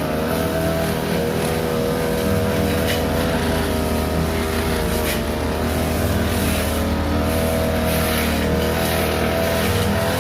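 Petrol brush cutter engine running steadily at high speed while cutting thick, weedy grass, with a few brief sharp ticks.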